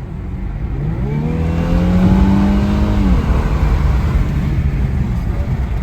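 Infiniti Q50's 3.0-litre twin-turbo V6 accelerating hard: the engine note climbs from about a second in, holds, then drops away just after three seconds, over a steady low road rumble.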